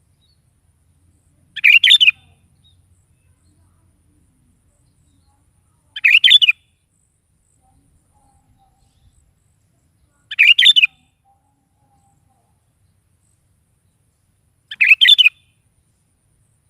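Sooty-headed bulbul (kutilang) singing four short, quick phrases, each about half a second long and about four seconds apart.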